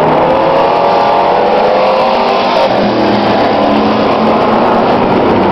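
Engines of several demo trucks running hard together on the track, a loud, continuous racket of overlapping engine notes that rise and fall as the drivers work the throttle.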